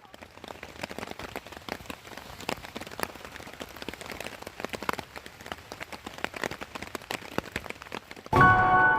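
Dense, irregular patter of many small taps and crackles, rain-like. Music with chiming, bell-like tones comes in suddenly near the end.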